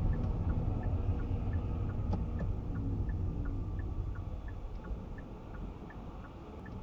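Inside a car: steady low road and engine rumble that slowly gets quieter, with a turn-signal indicator ticking evenly about three times a second.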